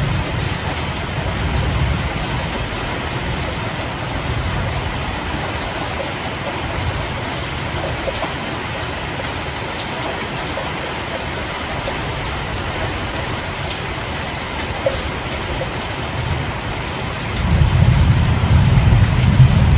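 Steady rain falling, with scattered drop ticks. A low rumble of thunder dies away in the first couple of seconds, and another swells up near the end.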